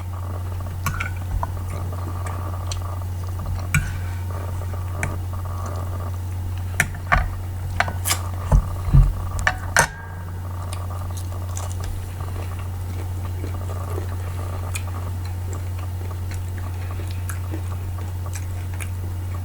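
A person eating breakfast: scattered short clicks and taps of cutlery on a plate, with chewing, over a steady low hum. The taps come most often a little after the middle.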